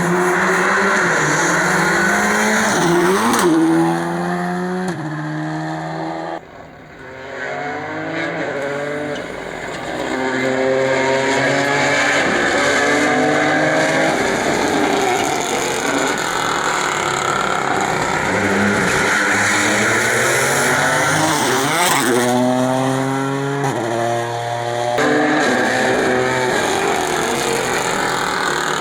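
Rally cars passing at full throttle, their engines revving hard and changing up through the gears several times over.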